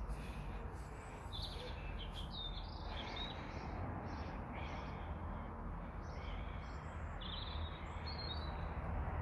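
Small birds chirping and twittering in short repeated phrases over a steady low rumble of outdoor background noise.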